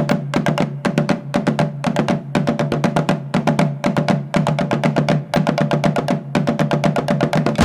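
A 24-inch melathalam, a motorised temple drum machine, beating its drum with mechanical sticks in a fast, even run of strikes over a steady hum.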